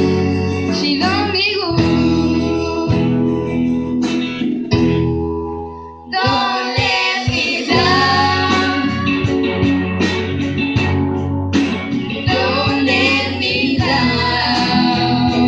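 Live acoustic band playing: strummed acoustic guitar with singing, briefly dropping away just before the middle.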